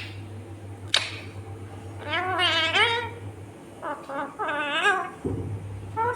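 Indian ringneck parrot calling: a short, sharp screech about a second in, then runs of wavering, warbling calls.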